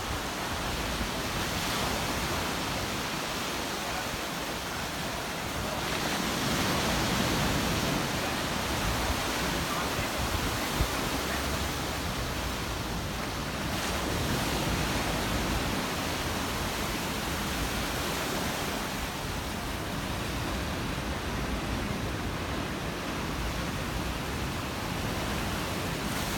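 Rough storm sea: waves breaking and washing without a break, a steady rushing noise that swells louder about six seconds in and again around fourteen seconds.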